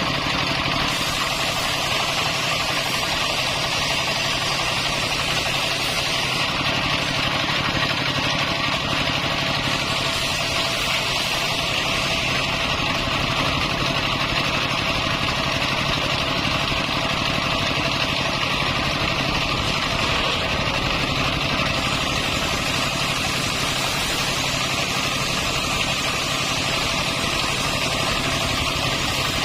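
Circular saw rig running steadily, a constant motor drone under a steady higher hiss from the blade, at an even level throughout.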